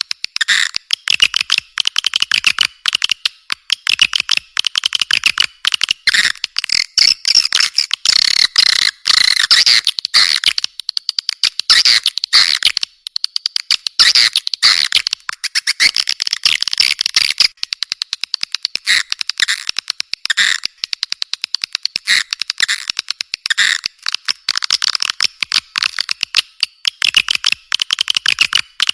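Bird calling: fast runs of rapid, chattering notes, phrase after phrase with only short breaks.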